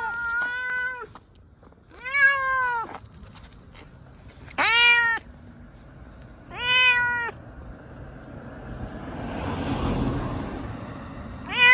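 Munchkin cat meowing over and over, long drawn-out meows a couple of seconds apart, each rising and then falling in pitch: the distressed crying of a cat being taken to the vet. A rushing noise swells and fades in the gap before the last meow.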